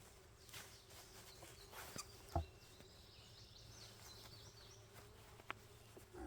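Faint buzzing of a honeybee colony, with one sharp knock a little over two seconds in and a lighter click later on.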